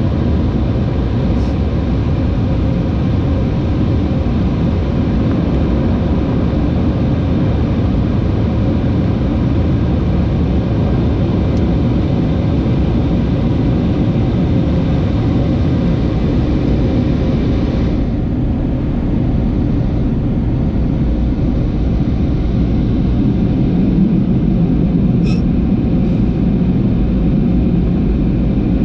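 Automatic car wash machinery running, a loud steady rushing noise heard from inside the truck's cab, with a faint steady hum from its motors; the upper hiss drops back partway through.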